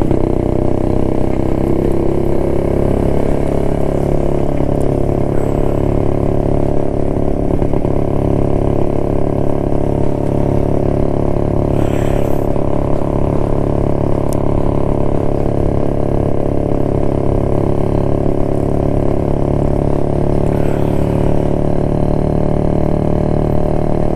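1972 Jawa motorcycle's two-stroke engine running steadily while riding, at an even pitch with no revving.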